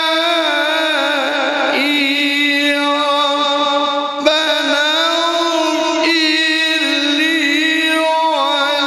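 A male Quran reciter chanting in melodic tajwid style, drawing out a long, ornamented held note with wavering runs in the upper voice. The voice breaks off briefly a little after four seconds, then goes on.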